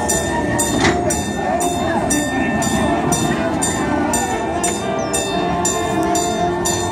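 Amusement-park train's passenger cars rolling past on the track, a steady rumble of wheels and cars, with a regular clicking about twice a second.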